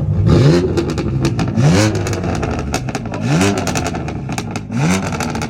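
A turbocharged car's engine with a VRSF single mid-pipe exhaust being free-revved in place: four quick blips, each rising in pitch and falling back to idle, about every second and a half.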